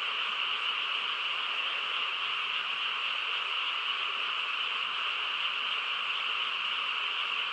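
A dense chorus of many frogs calling at once, merging into a steady, unbroken din with no single call standing out.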